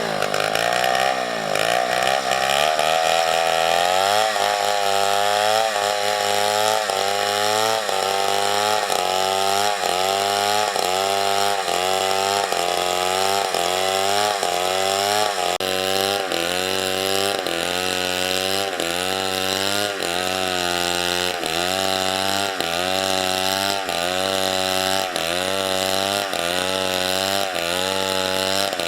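Chainsaw running at high revs while cutting through wood. Its pitch dips and recovers a bit more than once a second as the chain bites into the cut, with a deeper dip in the first couple of seconds.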